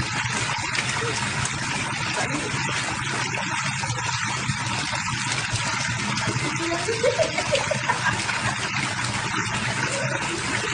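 Steady splashing rush of running water. Faint pitched sounds, perhaps voices, rise and fall about seven to eight seconds in.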